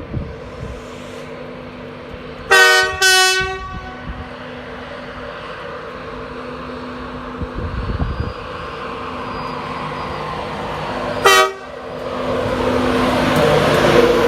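Class 91 electric locomotive sounding its two-tone horn: two loud blasts in quick succession about two and a half seconds in and a short third blast near eleven seconds, over a steady electrical hum. Near the end its running noise builds up as it moves off.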